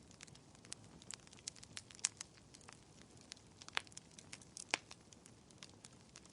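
Wood fire in a fireplace crackling: irregular sharp pops and snaps over a faint steady hiss, with a few louder pops about two, four and five seconds in.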